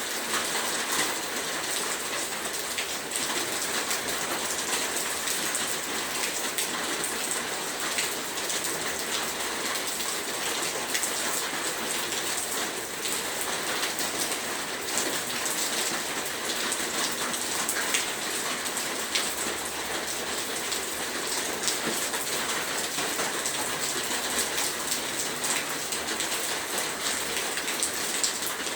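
Heavy rain falling steadily, a dense hiss with many individual drops pattering on surfaces.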